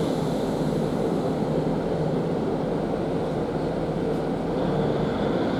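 Steady running noise inside a Class 150 Sprinter diesel multiple unit on the move: the drone of its underfloor diesel engine mixed with wheels on the rails. A faint high whine joins near the end.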